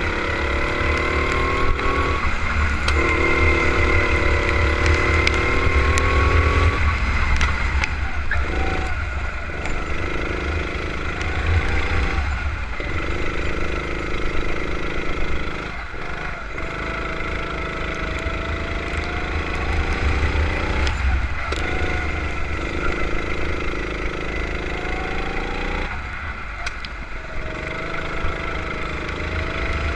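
Racing kart engine running hard at lap speed, its pitch climbing along the straights and cutting away sharply about six times as the throttle is lifted for corners.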